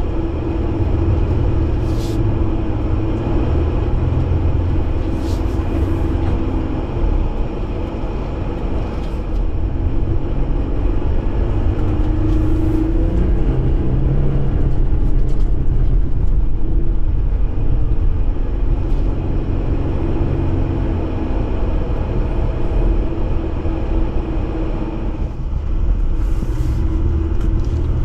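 A Jeep driving off-road, its engine and drivetrain giving a steady low rumble, with a few sharp clicks and rattles now and then.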